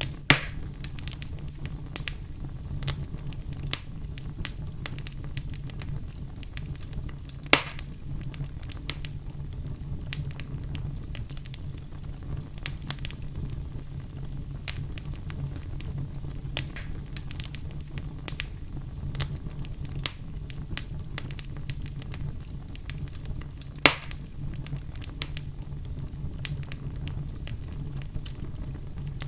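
Wood fire burning in a fireplace, a steady low rumble with irregular crackling throughout and three louder pops: one just after the start, one about a third of the way in, and one late on.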